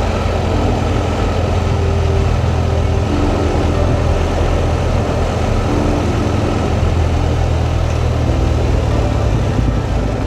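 Motorcycle engine running steadily at low revs under rushing wind noise on the rider's microphone.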